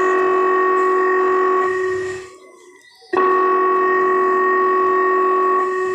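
A phone ringing: a steady, loud electronic ring in long tones of about two and a half seconds, with a pause of about a second between them, before the call is answered.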